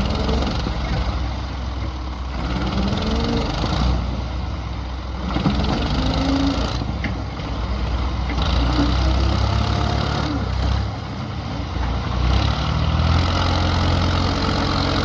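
Massey Ferguson MF 240 tractor's three-cylinder diesel engine running hard under load. Its note grows louder and steadier about halfway through.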